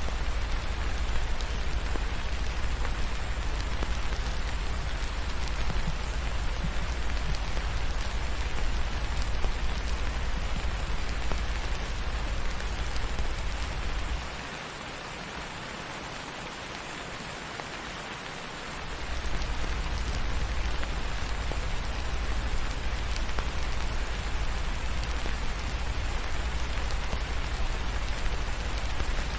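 Steady rain falling on a surface, an even hiss with a deep low rumble under it; the rumble drops out for about four seconds halfway through, leaving the rain quieter, then returns.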